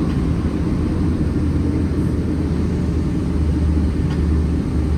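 Steady low rumble inside the passenger cabin of a Boeing 777-300 with Rolls-Royce Trent 800 engines.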